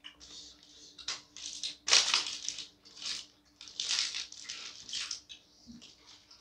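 Close-up chewing of crunchy food: a run of irregular crunches, the loudest about two seconds in.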